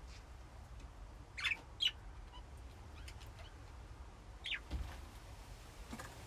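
Budgies chirping: two quick chirps about a second and a half in and one more past the middle, with faint ticks and a low hum underneath.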